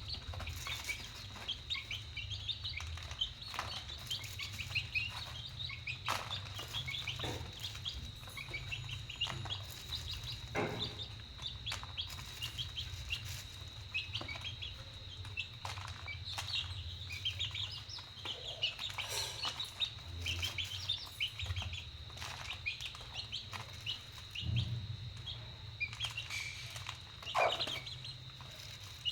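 Chicks peeping continuously: many short, high chirps overlapping, over a steady faint high tone and a low hum.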